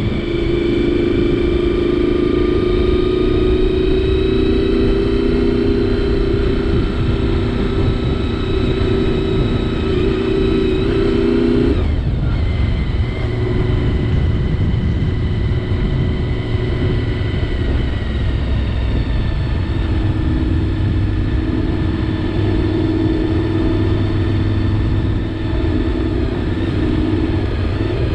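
Honda VFR 750 V4 motorcycle engine running under way at a steady pace, its note climbing slowly, dropping sharply about twelve seconds in, then building again, over steady wind and road rush.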